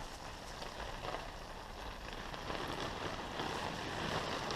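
Garden hose spray pattering on a nylon tent's fabric, a steady hiss of water.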